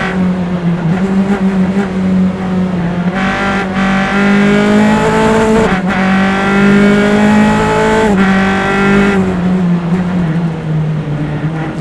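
Single-seater race car engine recorded onboard, pulling hard: the revs climb, with sharp upshifts about halfway through and again about two-thirds through. Near the end the driver lifts off and the revs settle lower.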